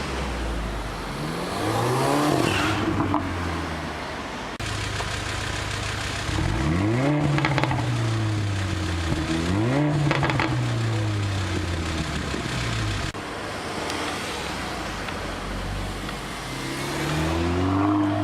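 Mercedes-Benz A45 AMG's 2.0-litre turbocharged inline-four accelerating hard several times, its exhaust note climbing in pitch and falling back at each gear change.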